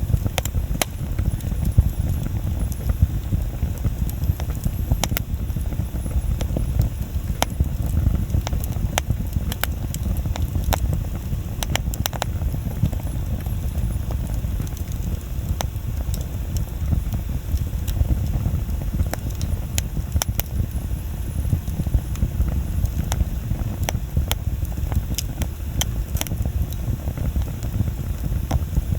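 Wood bonfire burning, with irregular sharp pops and crackles from the burning wood over a steady low rumble of the flames.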